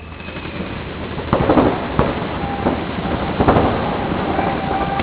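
Paintball markers firing in short rapid volleys, sharp popping shots in clusters about a second in and again past the middle, over a steady noisy background.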